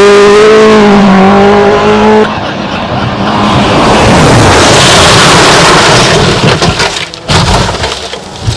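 A fast-moving racing vehicle's wheels: a wavering high squeal for about the first two seconds, then a loud steady rushing of wheels and air that fades near the end, with a couple of sharp knocks.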